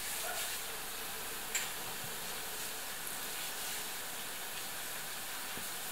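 Curd-dough kalachki frying in hot oil: a steady sizzling hiss, with one light click about a second and a half in.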